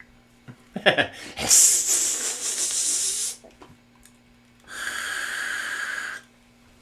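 Overdrive pedal and high-gain guitar amp hissing loudly in two bursts of a couple of seconds each, the first about a second and a half in and the second about five seconds in, the second carrying a steady high whine. A low mains hum runs underneath. This is the noise the Skull Driver V2 is marked down for, since it lacks an internal noise-reduction trim.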